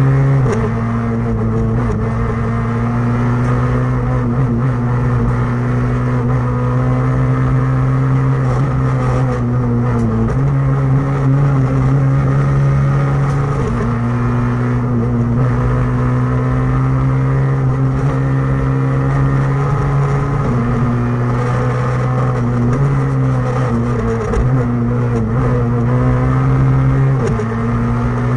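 Rally car engine running hard under load, heard from inside the cabin, its pitch stepping up and down several times as the driver changes gear.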